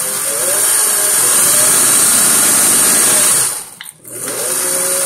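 Singer Touch and Sew 600E sewing machine's electric motor run from the foot pedal, speeding up with a rising whine and then running steadily. About three and a half seconds in it stops briefly, then speeds up again.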